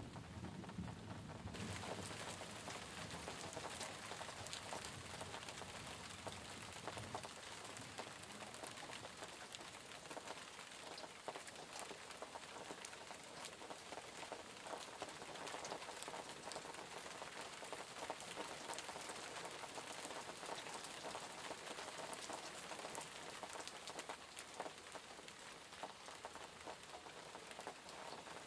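Steady rain falling on a surface, a dense patter of many small drops. A low rumble of thunder dies away over the first several seconds.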